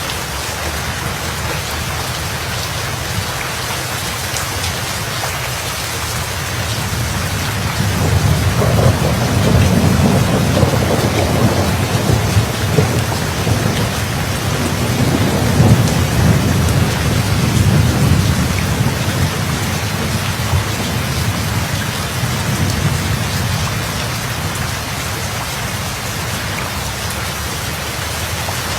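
Steady heavy rain with a long roll of thunder that builds about a quarter of the way in, rumbles deeply for roughly ten seconds, then fades back under the rain.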